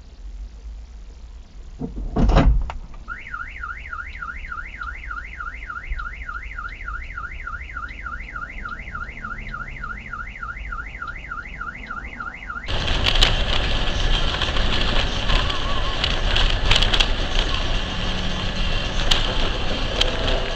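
A loud sudden impact about two seconds in. A car alarm then warbles, its tone sweeping up and down about four times a second. Near the middle the sound cuts abruptly to a louder, steady rushing noise with scattered clicks.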